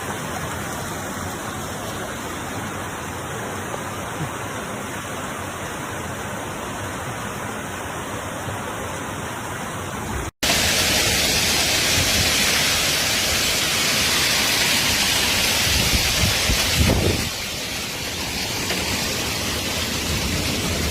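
Steady rushing noise of storm water, heavy rain or floodwater. About halfway it drops out for an instant and comes back louder and hissier, with a brief low thud about three quarters through.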